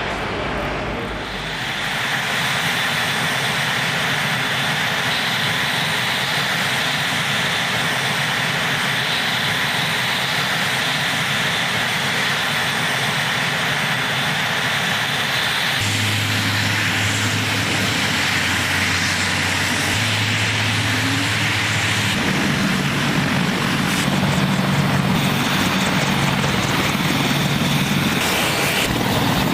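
Aircraft turbine engines running steadily, a loud even rushing whine; from about halfway through a low steady hum joins in and shifts a little higher near the end.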